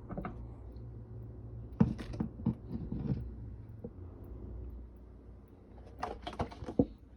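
Kitchen handling noises during food preparation: a cluster of knocks and clicks about two seconds in and another near the end, over a low steady hum.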